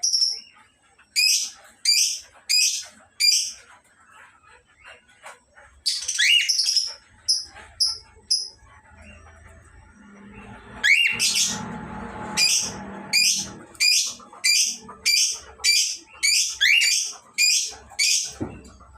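Cockatiels calling: short, shrill chirps repeated about every half second in runs, with a pause of a few seconds near the middle.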